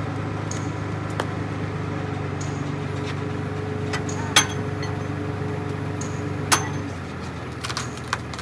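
Sharp metallic clinks and hammer-like strikes on steel parts, the two loudest about four and six and a half seconds in, over the steady drone of a running engine or machine that drops off about seven seconds in.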